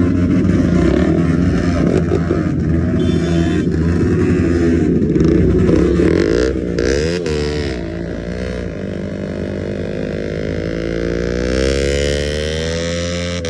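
KTM RC motorcycle engine held at high revs during a burnout, then the revs drop and swing up and down before settling to a steadier note that climbs slightly near the end.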